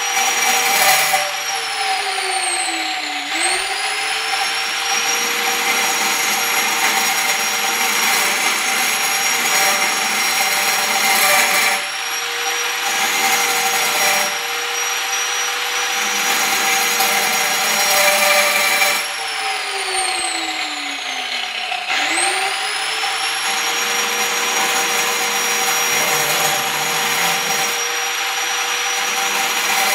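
Angle grinder running with a steady whine over a grinding rasp. Twice, about two seconds in and again around twenty seconds in, the whine falls in pitch as the motor slows, then climbs quickly back up to full speed.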